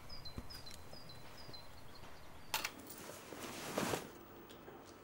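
A small bird repeating a short falling chirp about three times a second over faint outdoor hiss. Halfway through, a sharp click, then a short rustle as a backpack is handled.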